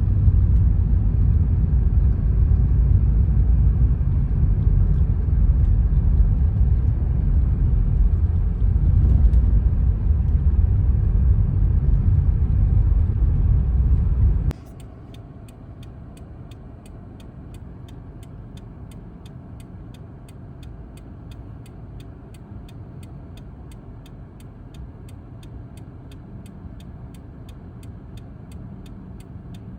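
Car running, a loud low rumble of engine and road noise, which cuts off abruptly about halfway through. After that it is much quieter, with a steady ticking of about two clicks a second.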